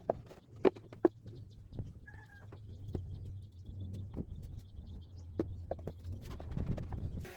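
Scattered light knocks and clicks over a steady low hum, with a brief high chirp about two seconds in.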